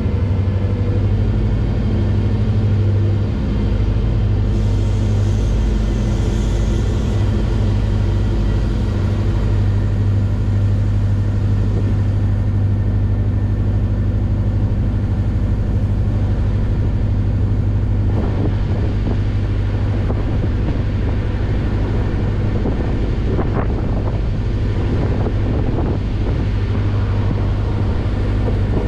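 Regional passenger train running along the line: a steady low rumble with a strong hum, and a few short clicks from the wheels over the track in the last third.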